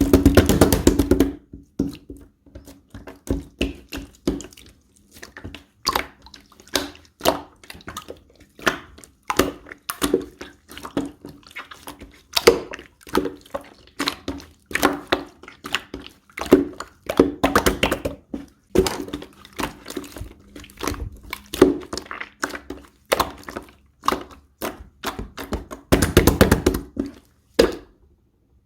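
Slime being pressed, stretched and poked by hand, giving a steady stream of wet pops and clicks. A quick crackling run of pops comes right at the start and again shortly before the end.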